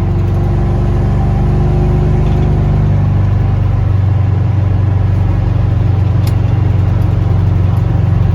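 A vehicle engine running steadily with a deep, loud low rumble close to the microphone.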